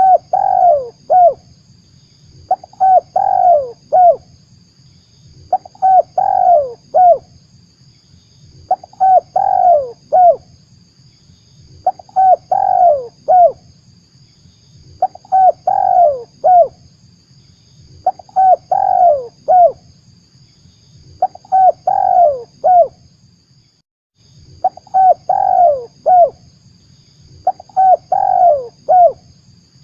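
Spotted dove cooing: the same short phrase of a few falling coo notes, repeated about every three seconds. It is a lure call, played to draw wild spotted doves in.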